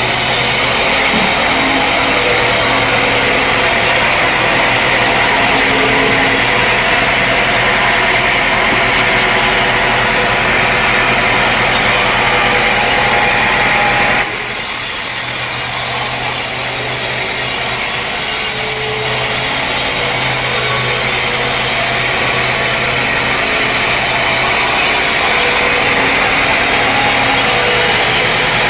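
Sawmill saw running and cutting lengthwise through a dense teak log, a loud steady grinding whine. About halfway through the sound changes abruptly, dipping briefly before the cut builds again.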